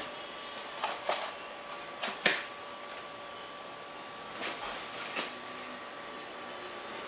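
Handling noises from unboxing a foam RC glider kit: a few short rustles and knocks, the loudest about two seconds in, over a steady faint hum.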